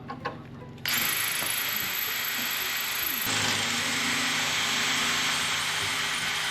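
Power drill starting about a second in and running steadily, drilling out a broken-off fastener with a larger bit; its sound changes about halfway through as a low hum sets in. A couple of light clicks come before it starts.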